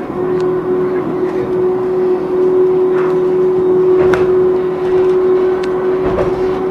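A vehicle running steadily, with a constant hum holding one tone over a rumble and a few faint clicks.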